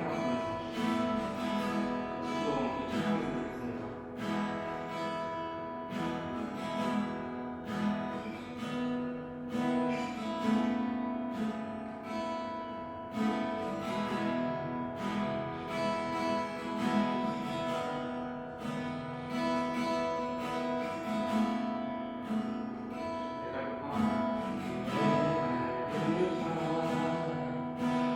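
Instrumental worship music led by an acoustic guitar strumming chords at a steady, unhurried pace.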